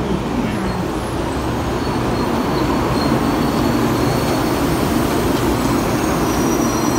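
Taiwan High Speed Rail 700T train running along a station platform: a steady rumble and hiss of the wheels and running gear, with no breaks.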